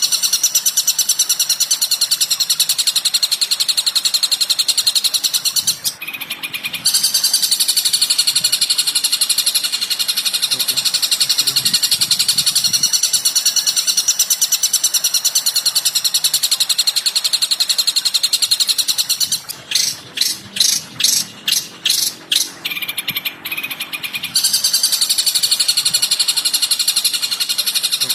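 Recorded bird song for a masteran training track: a fast, continuous chattering trill of high notes that breaks off briefly about six seconds in. Around twenty seconds in the trill gives way to about eight separate sharp notes, roughly three a second, before it resumes.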